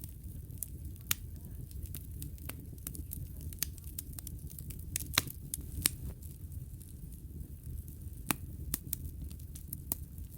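Wood fire crackling in a fireplace: sharp, irregular pops and snaps over a steady low rumble, the loudest pops about five and six seconds in.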